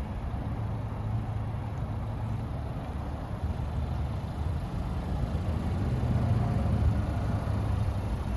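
Steady low idle of a 2023 Chevrolet Equinox's 1.5-litre turbocharged four-cylinder engine, getting a little louder near the end.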